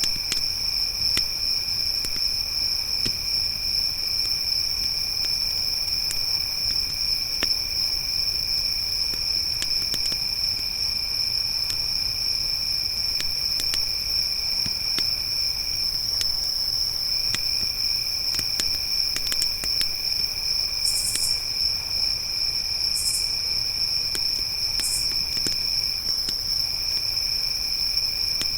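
Crickets trilling continuously in a steady, high chorus, with a second, lower insect trill that breaks off briefly twice and a few short higher chirps near the end. Faint scattered crackles of a campfire run underneath.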